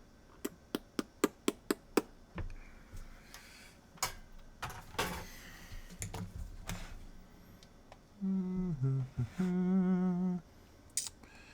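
A quick run of about seven sharp clicks, then scattered clicks and rustles from handling the console's parts. Later a man hums a few notes for about two seconds.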